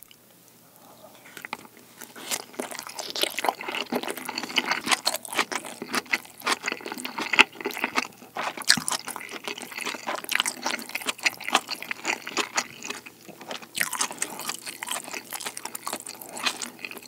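Close-miked chewing of a spoonful of rice with kimchi pizza tangsuyuk (sweet-and-sour pork in a kimchi sauce, with kimchi). It is a dense run of small crunches and mouth clicks that starts about a second in, with a short lull near the end.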